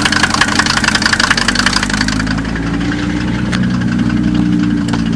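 1990 Mercedes 300D diesel engine idling with a dense, rapid clatter that eases a little about two seconds in. Two faint clicks come in the second half.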